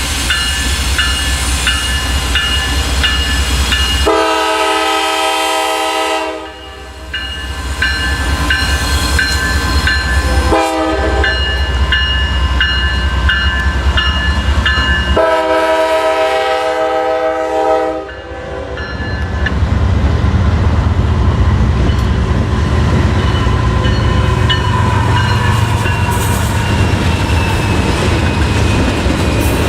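Norfolk Southern freight locomotive sounding its air horn: a long blast, a short one, then another long one, over a bell dinging about twice a second and a steady low rumble. About two-thirds of the way in the horn stops and the heavier rumble and rolling wheels of the passing freight train take over.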